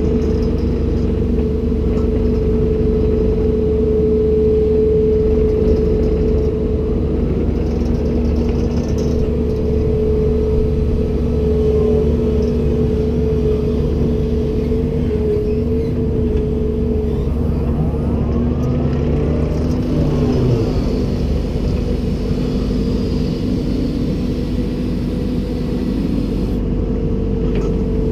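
Komatsu PC290-10 excavator running: a steady engine drone with a constant whine over it, and a few brief rising and falling tones around the middle.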